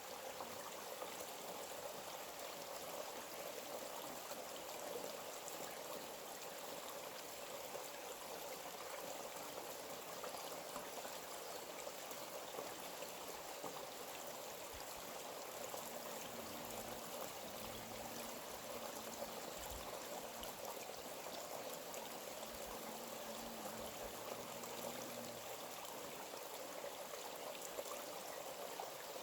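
A forest stream running and trickling steadily, with no break.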